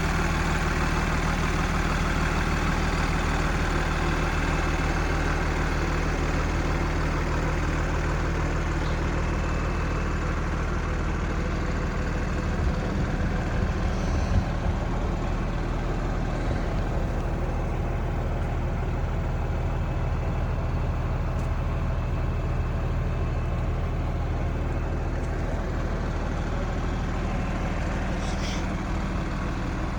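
Cummins ISC diesel engine of a Peterbilt 330 truck idling steadily, with one brief click about halfway through.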